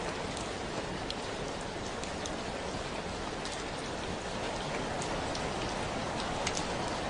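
Steady rain falling: an even hiss with scattered sharper ticks of individual drops landing.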